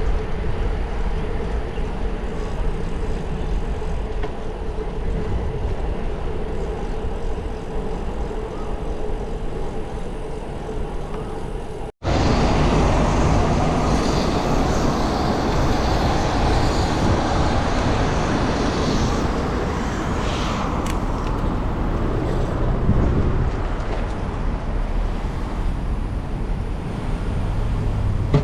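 Steady road and traffic noise heard from a moving bicycle, broken by a sudden gap about twelve seconds in.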